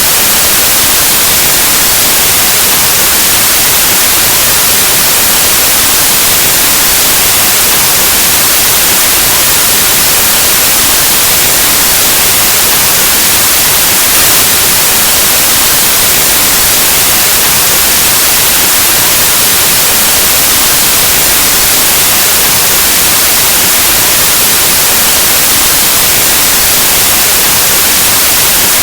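Loud, steady white noise: an even static hiss across the whole range, like an untuned analog TV or radio, unchanging throughout.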